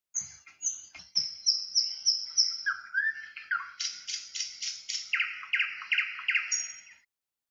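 A bird singing: phrases of short repeated whistled notes, first high and falling, then lower, then a loud quick run of about four notes a second, cut off abruptly near the end. A couple of faint knocks come in the first second.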